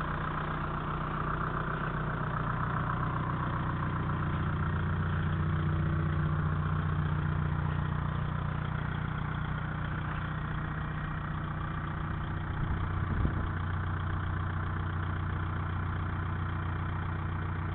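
Volkswagen TDI turbodiesel engine idling steadily, with a short thump about two-thirds of the way through.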